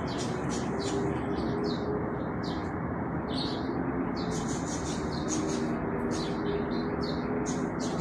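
Birds chirping in quick repeated bursts over a steady background hiss.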